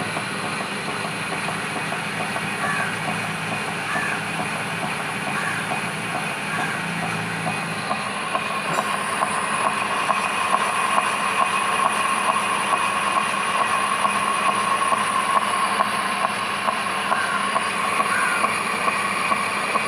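Metal lathe running and boring out a bearing block: a steady machine whine with a fast, fine rattle. A high, steady tone comes in stronger about halfway through, as the sound grows a little louder.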